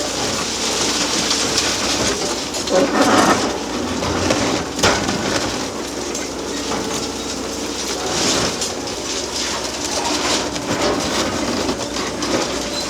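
Hydraulic demolition excavators running steadily, with the clank and crunch of breaking concrete and steel and a few sharp knocks.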